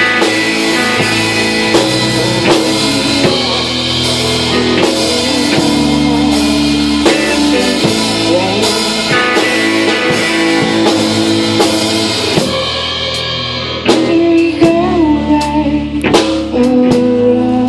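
A small band playing live: drum kit and guitar, with some singing. Near the end the cymbals drop away and the guitar comes forward with bent notes.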